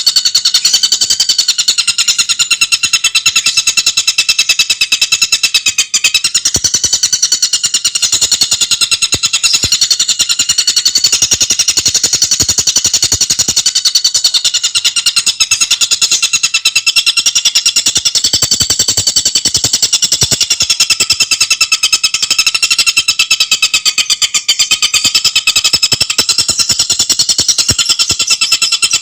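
Tengkek buto bird calling in a fast, unbroken rattle of high repeated notes, delivered tightly without pause, as in a masteran song-tutor recording.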